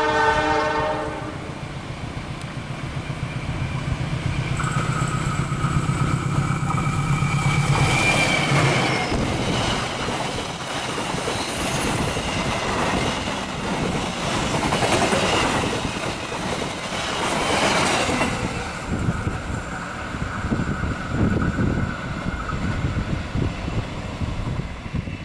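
KAI diesel locomotive sounding its horn briefly at the start, then its engine humming steadily as the train approaches. Passenger coaches then rattle and clack over the rail joints as they pass, and a lighter train rumble follows to the end.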